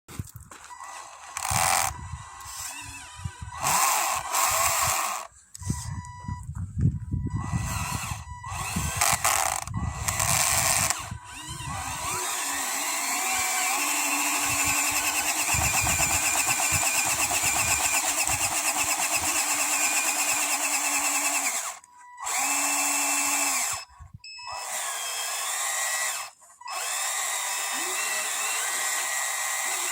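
Small electric motors of radio-controlled model construction machines whining. In the first part they start and stop in short bursts, then they run steadily for about ten seconds, then they stop and start a few more times.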